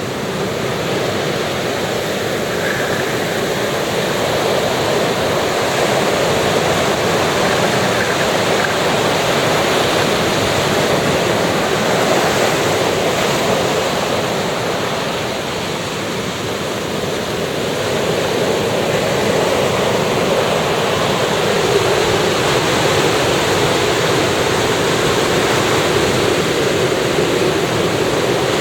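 Ocean waves washing onto a beach: steady surf with the level swelling and easing slowly as waves come in, dipping about halfway through and building again.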